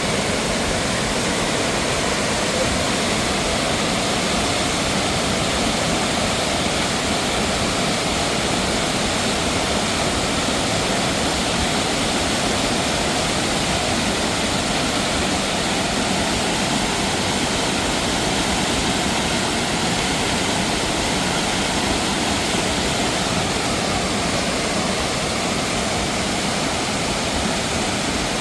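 Rushing mountain water, a loud, steady roar with no breaks.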